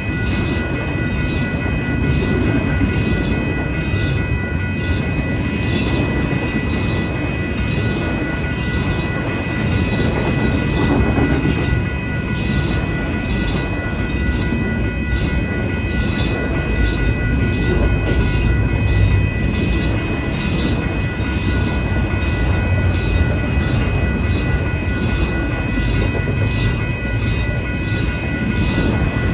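Union Pacific double-stack intermodal train's container cars passing: a steady heavy rumble with light wheel clatter, and several steady high ringing tones over it.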